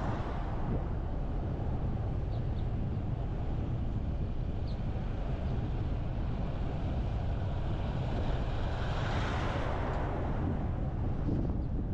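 Steady road and wind noise of a car driving, low and even throughout. Around nine seconds in, a louder rushing sound swells and fades.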